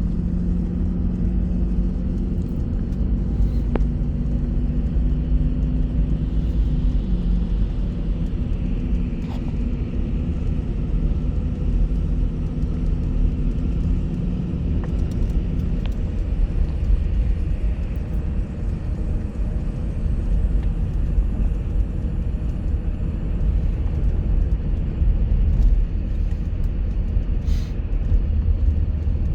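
Bus engine running with steady low road rumble; the engine's hum shifts in pitch about a third of the way in and fades halfway through, leaving the rumble.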